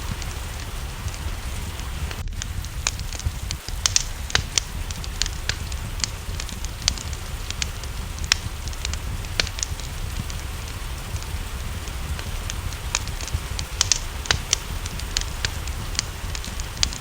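Wood fire crackling, with irregular sharp pops over a low steady rumble, mixed with steady rain.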